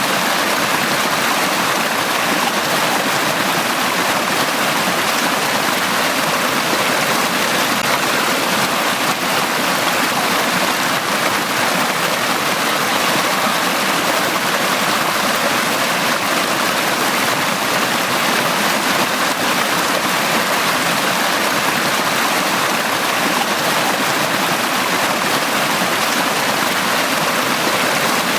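Forest stream running steadily over rocks, a continuous even rush of water.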